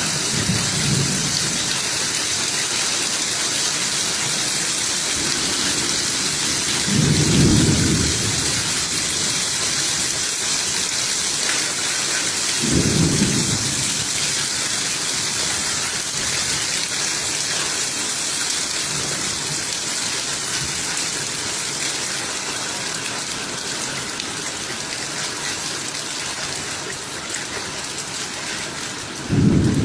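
Steady heavy rain falling, with three brief low rumbles: about seven seconds in, about thirteen seconds in, and near the end.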